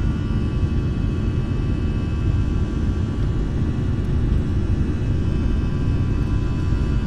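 Jet airliner cabin noise: a steady, loud low rumble from the engines and airflow, with several steady high whining tones from the engines.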